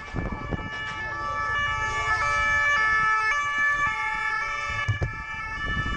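Two-tone police siren alternating between a high and a low note, over a low rumble of engine and road noise.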